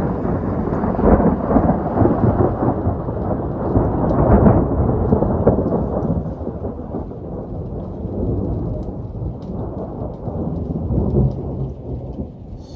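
Thunder rumbling and rolling over steady rain. It builds to its loudest about four seconds in, then slowly dies away.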